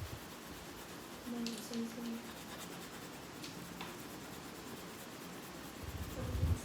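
Colouring strokes on paper: a quiet stretch with a few faint light strokes, then rapid back-and-forth scribbling starts up near the end.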